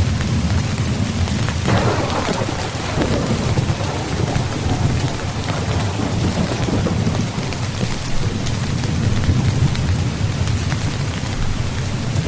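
Rain falling steadily on a tent, with a roll of thunder that breaks in about two seconds in and dies away over several seconds.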